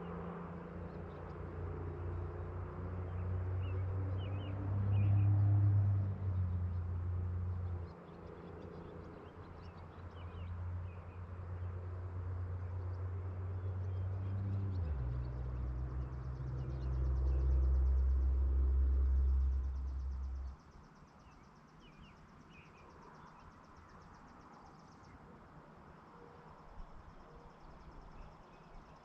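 Low engine drone of a distant motor vehicle, its pitch shifting in steps, which stops abruptly about two-thirds of the way through. Faint bird chirps and a thin high insect buzz sit over the quiet rural background.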